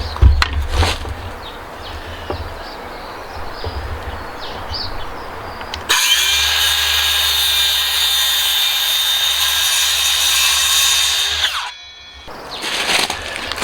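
Makita electric saw motor spinning up and running at a steady whine for about six seconds, then cutting off abruptly, used to cut tenons in framing timber. Before it come irregular knocks and scraping of hand work on the wood.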